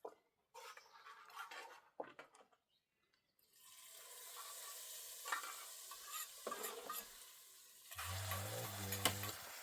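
Food sizzling as it fries in a pan, with a utensil stirring and clinking against it. The sizzle starts a few seconds in after some scattered clicks, and a low hum joins near the end.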